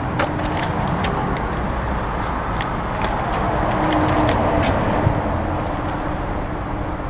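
Cummins GTA855-G3 turbocharged inline-six natural-gas generator set running steadily at constant governed speed, a continuous even engine noise with a faint steady hum.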